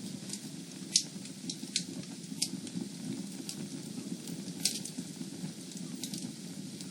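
Fireplace fire burning with a steady low rumble and irregular sharp crackles and pops, the loudest about a second in.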